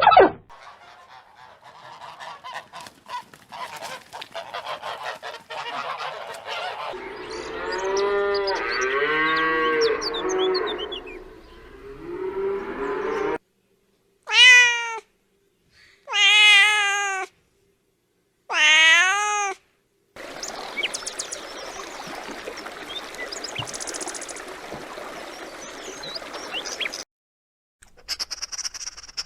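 Cats meowing: first a jumble of overlapping meows, then three separate drawn-out meows that each rise and fall in pitch. Stretches of scratchy noise and a steady hiss come before and after the calls.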